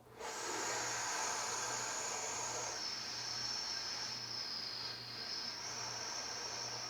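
A long breath drawn in through pursed, whistle-shaped lips, a steady breathy hiss with a high faint whistle. The whistle drops in pitch about three seconds in and rises again near the end. This is the inhale phase of a Kundalini breath-and-chant exercise, following a chanted 'La' exhale.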